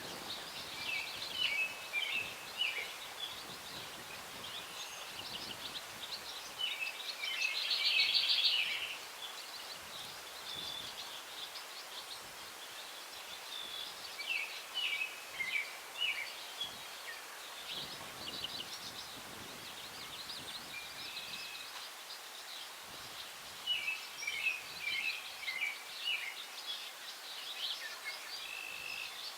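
Songbirds singing in short, repeated twittering phrases every few seconds, over a steady hiss of breeze through the trees; the loudest phrase comes about eight seconds in.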